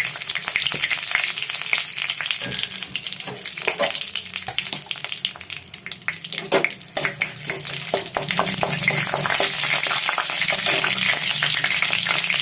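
Whole spices (bay leaves, cardamom, cinnamon, cloves and peppercorns) sizzling and crackling in hot ghee in a kadhai as the tadka is made, with stirring. The frying grows louder and busier about two-thirds of the way through.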